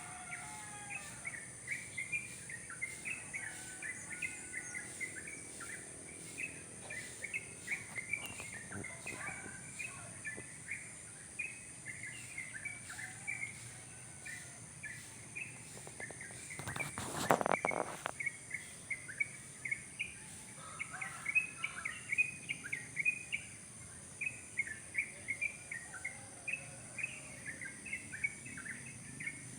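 Wild songbirds calling the local people's 'cerok-cokan', giving many short chirps in quick repeated phrases, with a steady high hiss behind them. About seventeen seconds in, a louder noisy burst lasts a second or so.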